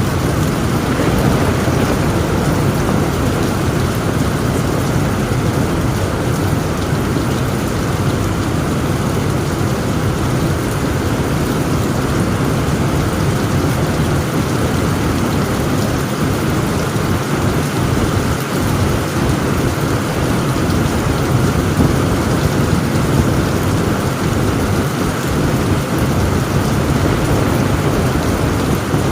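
Heavy rain pounding steadily on a tent roof, with a deep, continuous rumble of thunder underneath.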